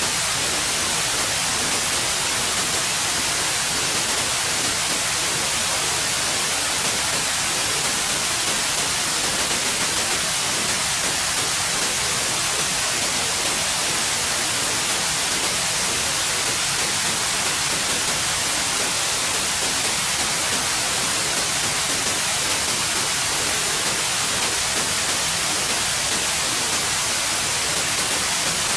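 Steady, unbroken white noise: an even hiss, bright and heavy in the treble, without change.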